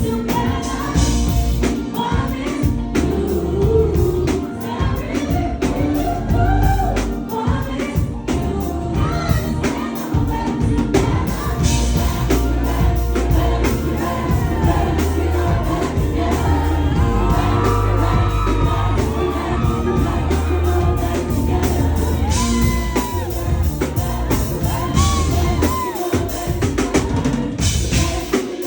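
Live pop/R&B performance: a woman singing lead over a band with drums and heavy bass, with backing vocals.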